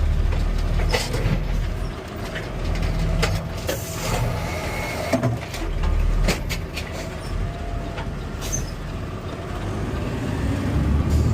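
Garbage truck running as it lifts and empties a trash cart, with a faint steady whine through the middle and several sharp knocks and clatters as the cart is handled and dumped. Near the end the engine rises in pitch.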